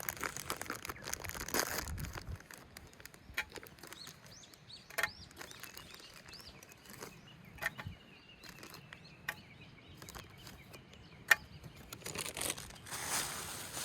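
Small birds chirping in short curved calls, over scattered sharp clicks and taps. A hissing rush of noise sets in near the end.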